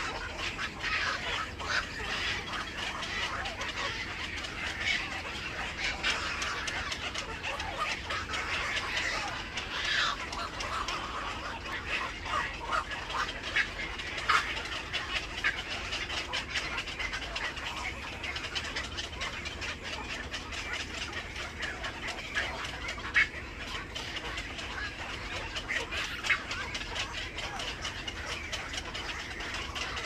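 Birds calling: a continuous chatter of many short calls, with a few louder calls standing out here and there.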